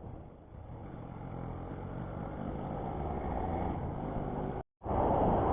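Vehicle running on the move, with a rumble of engine and wind noise on the camera microphone that grows louder, broken by a moment of silence near the end.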